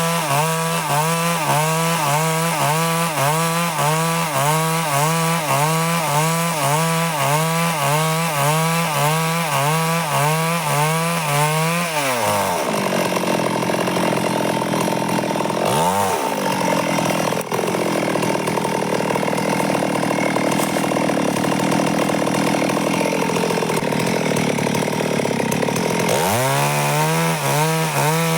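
Stihl chainsaw running while cutting boards from wood, its engine note wavering in a steady rhythm a little under twice a second. About twelve seconds in the note drops and runs steadier with a brief dip, and the rhythmic wavering returns near the end.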